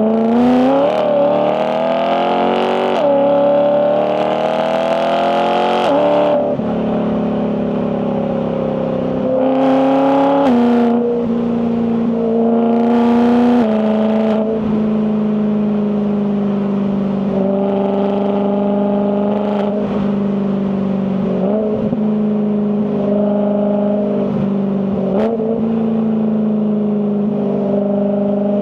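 BMW E92 M3's 4.0-litre S65 V8 exhaust accelerating hard, the pitch climbing and dropping back at quick dual-clutch upshifts about three and six seconds in, with two more short pulls after that. The engine then runs at a steady pitch, shifting a few times.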